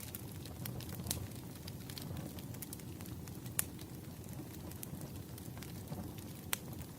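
Wood fire crackling in a fireplace: a steady low rumble of burning with scattered sharp pops, the loudest about halfway through.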